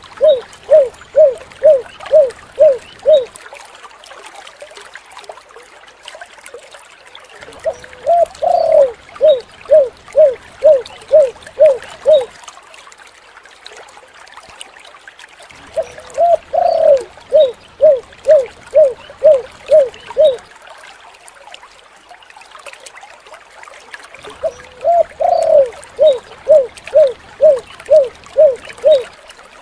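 Spotted dove (tekukur) cooing: a phrase of a rising opening note and about eight short, evenly spaced coos, repeated four times roughly every eight and a half seconds, over a steady hiss.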